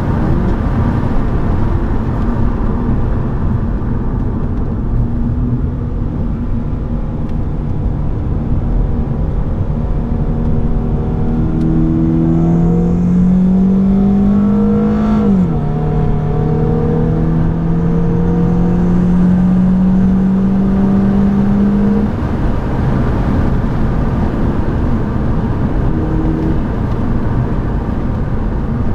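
BMW 118i's four-cylinder engine heard from inside the cabin, pulling hard under acceleration with its note climbing, then dropping sharply at a gear change about halfway through and climbing again. The engine note falls away about three-quarters in, with tyre and wind noise throughout.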